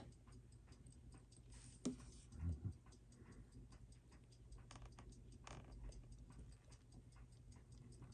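Faint, steady ticking of a clock, with one sharper click about two seconds in.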